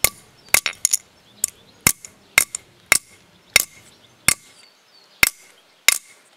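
Small sledgehammer repeatedly striking an AMD Athlon 64 processor: about a dozen sharp metallic blows roughly half a second apart, spacing out near the end, each with a short ring.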